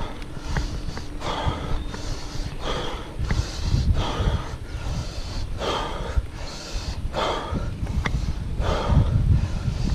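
A cyclist panting hard, about one and a half loud breaths a second, from the effort of grinding up a steep hill climb on a heavy full-suspension mountain bike. A low rumble runs underneath.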